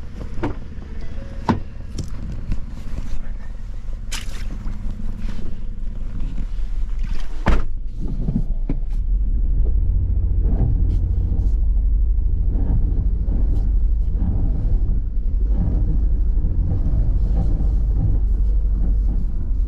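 A few sharp knocks, then from about eight seconds in a vehicle engine running with a steady low rumble.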